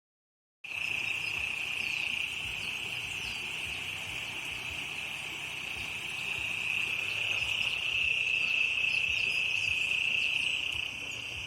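Insects shrilling in one steady, unbroken high buzz, with faint bird chirps above it; it starts abruptly after a moment of silence.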